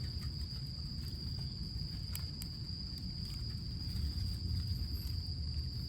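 Insects, crickets by the sound of it, calling in one steady high-pitched trill over a low rumbling noise, with two faint clicks a little after two seconds in.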